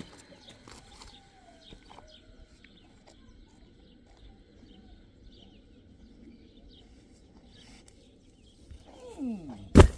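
Faint outdoor background with small chirps; near the end an animal's call sliding down in pitch, broken by one loud sharp knock.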